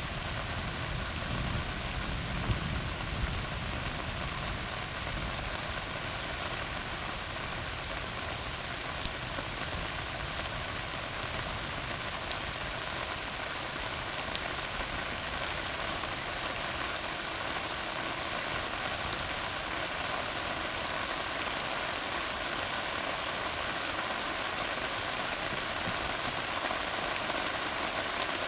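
Steady rain falling on a tar road, an even hiss with scattered sharp drop ticks. A low rumble under it fades out over the first few seconds.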